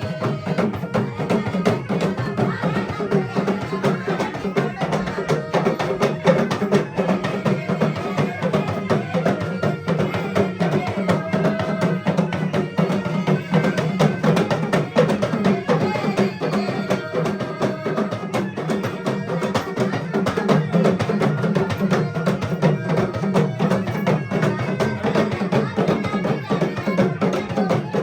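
Traditional folk music driven by fast, dense drumming, with steady percussion strokes that continue without a break.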